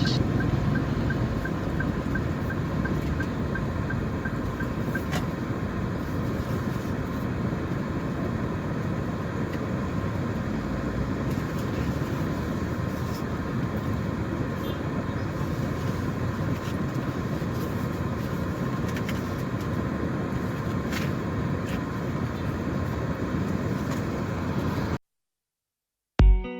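Steady road traffic and vehicle noise. A faint regular ticking runs through the first few seconds, and the sound cuts off abruptly near the end.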